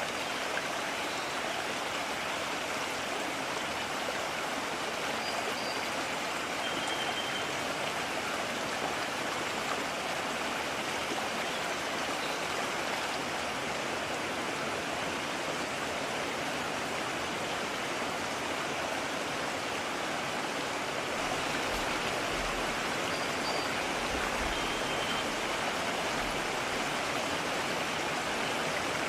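A mountain stream rushing steadily over rocks, an even wash of water noise. Faint brief high chirps come through twice.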